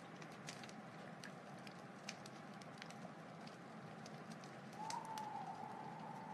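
Wood fire crackling: a steady hiss with scattered sharp pops and snaps. About five seconds in a thin whistling tone rises slightly and holds for about a second and a half.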